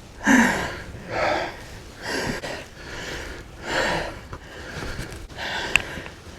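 A person breathing hard, out of breath after a steep walk uphill: a run of heavy breaths, one about every second or so.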